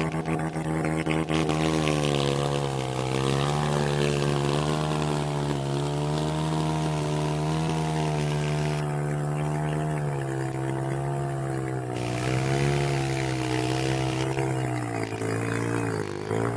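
A motorcycle engine running at fairly steady revs for the whole stretch, its pitch rising and falling gently. The revs drop a little about a second before the end.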